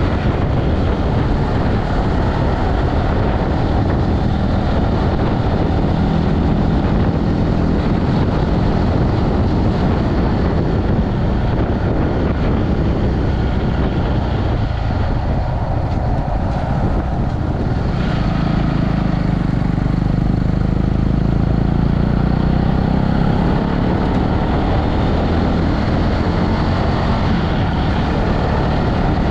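Motorcycle engine running steadily while riding, under heavy rushing wind noise.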